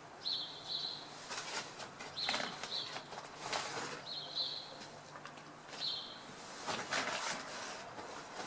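Small birds calling with short, high chirps, mostly in pairs, repeated every second or two, with several brief rustles in between.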